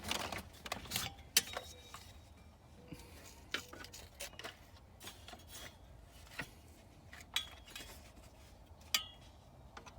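Scattered light clicks and clinks of hands and tools working on an engine to get at the PCV valve, with half a dozen sharp taps spread across a faint steady hum.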